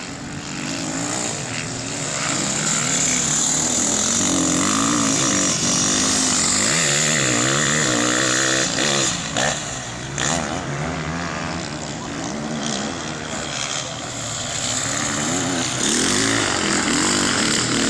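Off-road racing engines revving hard as bikes or quads go around the circuit, the pitch climbing and dropping again and again with throttle and gear changes. The sound is loudest in the middle and again near the end.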